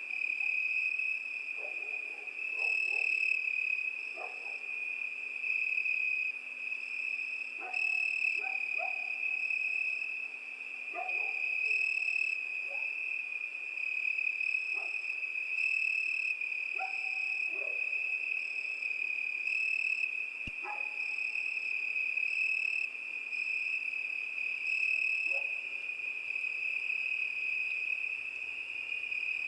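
Crickets chirping in a steady, unbroken high trill. Faint short calls or clicks are scattered lower down.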